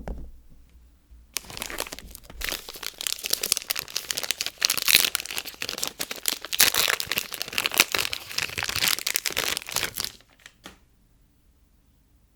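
Soap packaging being crinkled and pulled open by hand: dense crinkling and tearing from about a second and a half in until about ten seconds in, after a light knock at the start.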